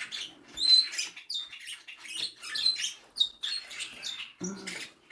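Cockatiels in a nest box giving a rapid run of short, sharp chirps, several a second, with a brief lower-pitched sound about four and a half seconds in.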